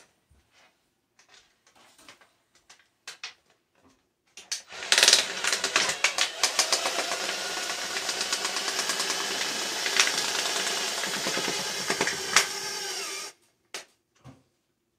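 A few light clicks, then a handheld power tool runs for about nine seconds with a steady motor note and a fast, dense clattering, with a few sharper knocks along the way. It winds down and cuts off suddenly.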